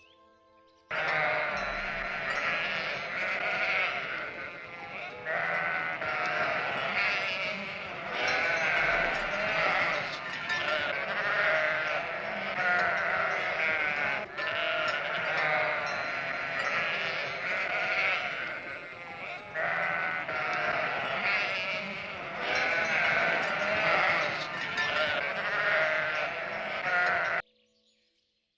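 A flock of sheep bleating, many voices overlapping almost without a break. It starts about a second in and cuts off suddenly near the end.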